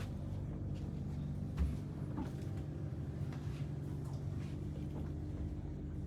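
Steady low mechanical hum, with a few light clicks and a short low thump about one and a half seconds in.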